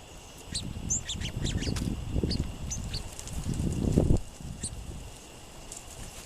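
Small songbirds giving a quick run of short, high chips and calls, with one more a little later. Under them, gusty wind rumbles on the microphone and is the loudest sound until it eases about four seconds in.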